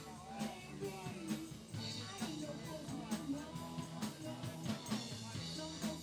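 A live band playing a rock song with drums, bass and guitar, and possibly a singer.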